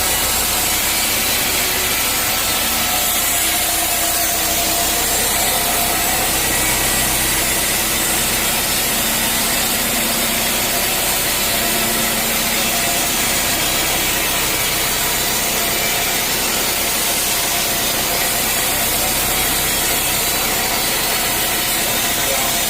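Sawmill saw cutting lengthwise through a teak log. A loud, steady sawing noise with the machine's drive running underneath, unbroken throughout.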